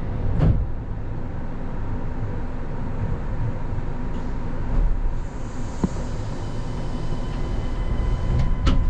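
Kanazawa Seaside Line rubber-tyred automated train running, heard from on board: a steady low rumble with a faint steady whine above it and a few sharp clicks.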